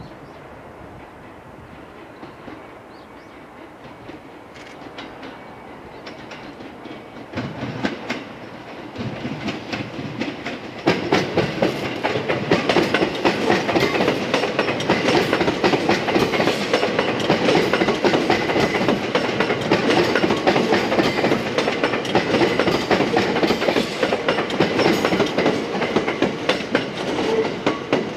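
JR West 227 series electric multiple unit approaching and passing close by, louder from about eight seconds in and loudest from about eleven seconds on. Its wheels clatter in quick clicks over rail joints and points.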